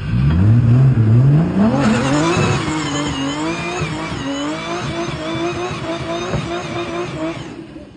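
A performance car's engine accelerating hard up the hill: its pitch climbs and drops back twice in the first couple of seconds as it shifts up, then holds higher and fades as the car pulls away near the end.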